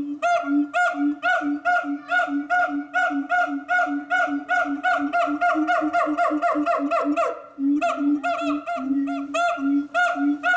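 Siamang calling in a fast, even rhythm, low hooting notes alternating with higher-pitched barks about three times a second. The calls quicken, break off briefly about seven and a half seconds in, then start again.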